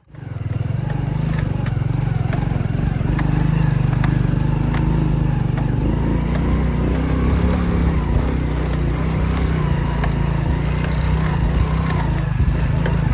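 Motorbike engine running steadily on the move, a continuous low drone that starts abruptly at the opening.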